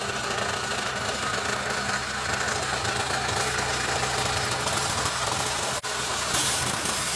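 A car washing machine running steadily: a motor hum under a loud, even hiss, with a brief break a little before six seconds.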